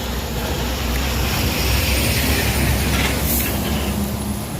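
Moving vehicle's steady low rumble with road and wind hiss, swelling slightly in the middle.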